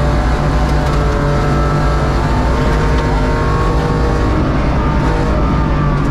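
BMW E36 rally car's engine running hard under load, heard from inside the cabin, its pitch drifting up and down a little as the revs change. Gravel and road noise from the tyres runs under it.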